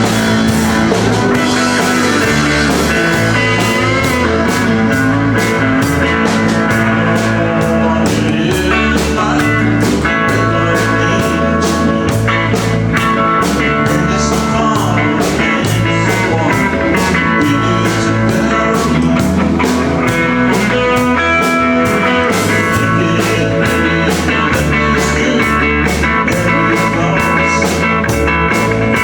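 Live country-rock band playing, with guitar over a steady, regular beat.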